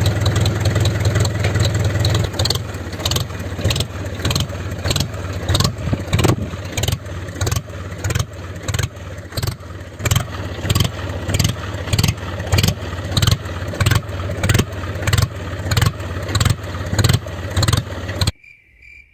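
Small motor of a homemade mini tractor running steadily, with a regular knock about twice a second; it stops suddenly near the end.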